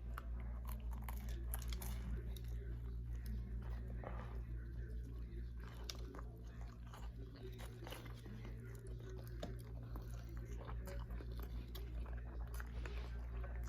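Close-up biting and chewing of a Subway sandwich, wet mouth clicks and crunches coming irregularly, over a steady low hum.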